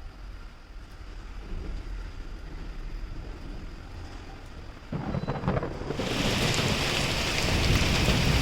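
Thunderstorm: rolling thunder building in the low end, a heavy rumble of thunder about five seconds in, then heavy rain coming in as a loud steady hiss about a second later.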